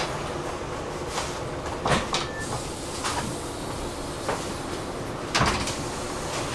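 Passenger train running, heard from inside a carriage: a steady rumble with a few sharp clunks, two close together about two seconds in and another about five and a half seconds in.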